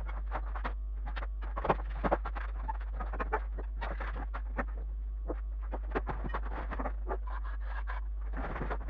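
Rapid, irregular clicks and short scrapes, several a second, over a steady low hum.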